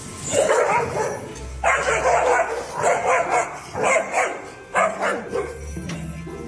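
Dog barking aggressively in about five rough outbursts with short pauses between them.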